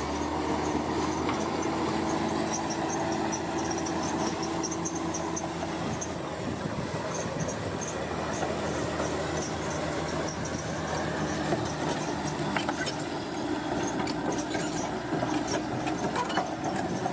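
Bulldozer's diesel engine running steadily under load, with metallic squealing and rapid high clicking from the crawler tracks.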